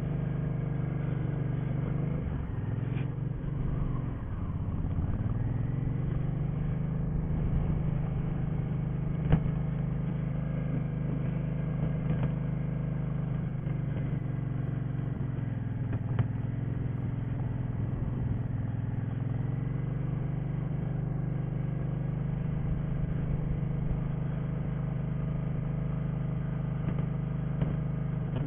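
Motorcycle engine running at low revs through slow, tight practice turns, its pitch dipping and rising as the throttle and clutch are worked, with a brief tick about nine seconds in.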